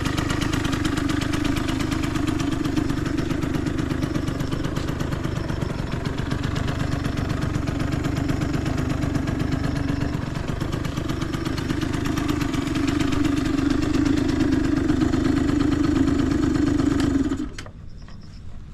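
Yamaha JOG 3KJ scooter's 50cc two-stroke engine running steadily at idle, with small rises and falls in level, then shut off near the end. The seller describes it as free of abnormal noise.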